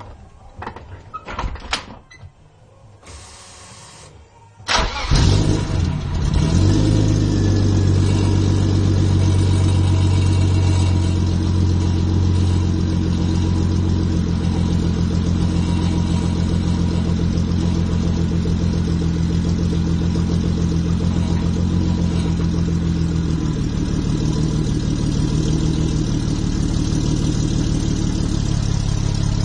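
Mercedes-Benz 300SE (W126) straight-six starting through a newly replaced muffler and resonators. There are a few clicks and a brief crank, then the engine catches about five seconds in and settles into a steady idle. The uploader attributes a ringing in the exhaust to the flange joint with the main muffler.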